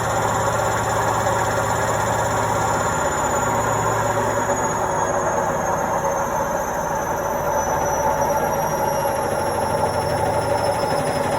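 Indesit washing machine running, a steady dense mechanical rumble and whirr from the drum and motor. A faint high whine slowly falls in pitch throughout.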